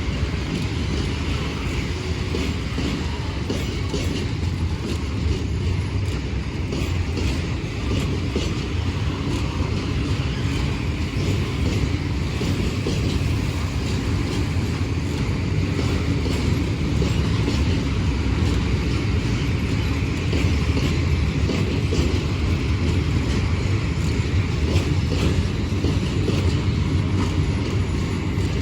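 A train running on the rails: a steady, loud rumble with many wheel clicks over the track, growing slightly louder in the second half.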